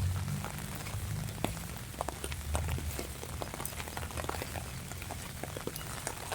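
Rain falling, with many separate large drops ticking close by against a steady hiss. A low rumble lies under it, strongest in the first half.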